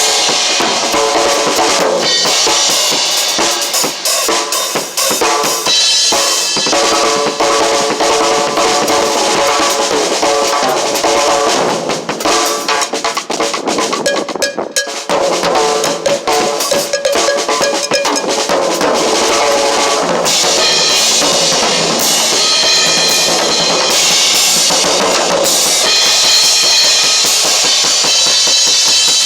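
Drum kit played continuously, with bass drum, snare and cymbal strikes, thinning briefly about halfway through.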